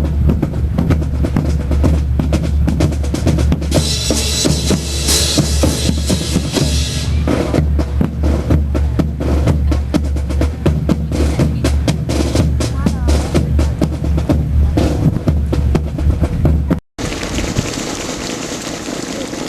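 Drum-led music with bass drum and snare playing dense, rapid strikes. It cuts off abruptly near the end, giving way to a steady noisy background.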